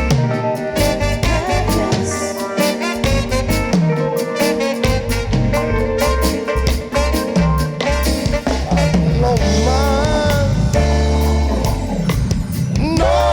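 Live reggae band playing an instrumental passage: drum kit keeping a steady beat under bass and guitar.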